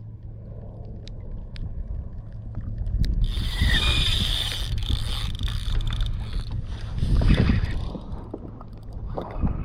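Wind noise and water sounds around a fishing kayak. A loud hiss starts about three seconds in and fades after about three seconds, with further louder swells near the end.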